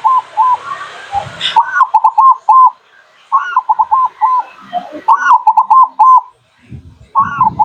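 Zebra dove (perkutut) song: repeated phrases of a rising opening note followed by a quick run of four or five short coos, about four phrases. A faint hiss underneath stops about one and a half seconds in.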